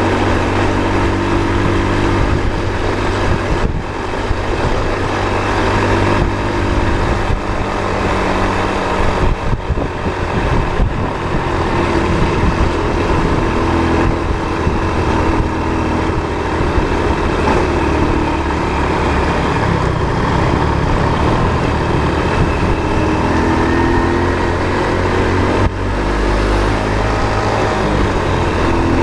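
Motor vehicle engine running steadily on the road, its pitch shifting up and down a little, with a few brief dips in loudness.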